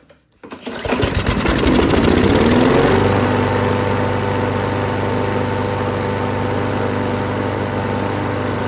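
Craftsman walk-behind lawn mower engine, given a little starting fluid, catching on the pull about half a second in, revving up and wavering for a couple of seconds, then settling into a steady run.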